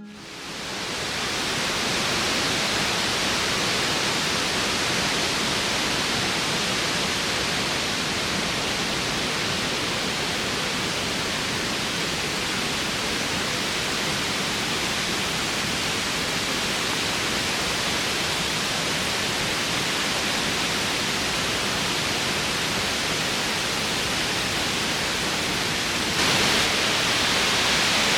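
Waterfall water rushing steadily. It swells slightly near the end.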